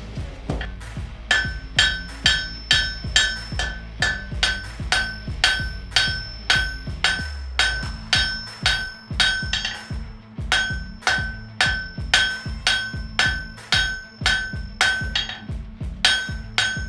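Blacksmith's hammer striking on an anvil in a steady rhythm, about three blows a second, each blow ringing with the same bright anvil tone. There is a brief pause about ten seconds in, over a low steady hum.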